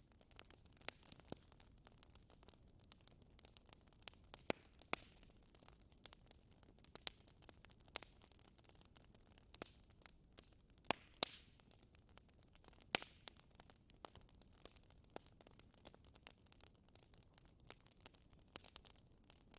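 Wood fire crackling in a fireplace: irregular sharp pops and snaps over a faint steady hiss, a few louder pops about four seconds in and around eleven to thirteen seconds in.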